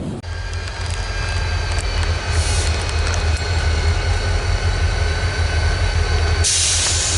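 Diesel freight locomotive running with a low rumble and thin steady high whines, with a short hiss about two and a half seconds in and a louder hiss near the end.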